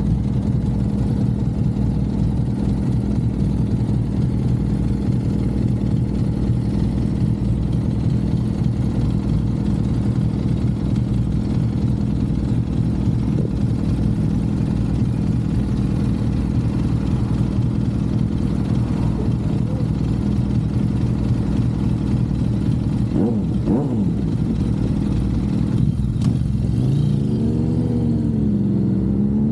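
Suzuki GSX-R750 inline-four motorcycle engine running at a steady cruising note. About two-thirds of the way through there is a quick rise and fall in pitch, and near the end the note drops, then climbs steadily as the bike accelerates.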